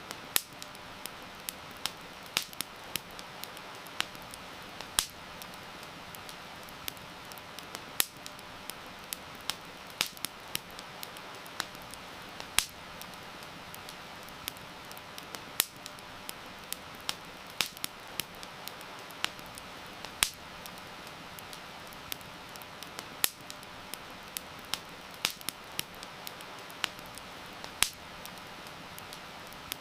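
Wood fire crackling, with irregular sharp pops and snaps, some much louder than others, over a steady hiss of heavy rain.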